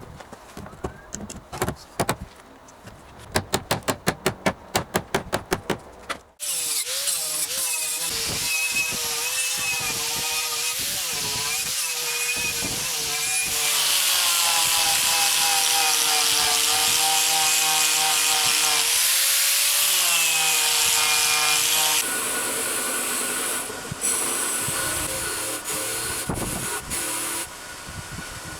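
Fast, regular knocking for about six seconds, then a power tool running on wood, its pitch wavering as the load changes, with a loud hiss that grows strongest in the middle.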